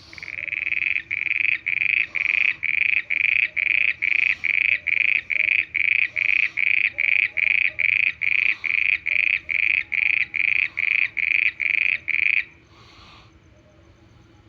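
A frog calling: a long, even series of short, same-pitched notes at about two and a half a second, which stops shortly before the end.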